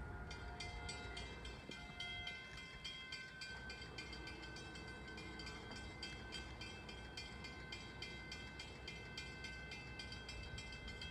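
NJ Transit train passing, with a steady high whine and a quick regular clicking over a low rumble.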